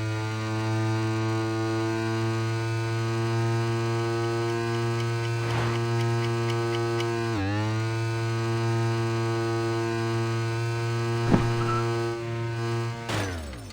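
A steady low hum with many overtones. It dips briefly in pitch about halfway through, has a couple of short clicks, and cuts off with a quick falling sweep near the end.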